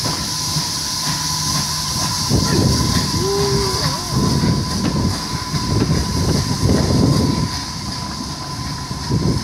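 Passenger coaches rolling slowly past behind a departing GWR 6400-class pannier tank steam locomotive, the wheels rumbling and clanking over the rail joints in uneven surges, with a short squeal about three seconds in.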